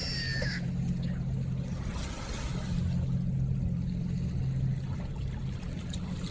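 River water trickling and splashing over a steady low hum. A brief high-pitched call sounds in the first half-second.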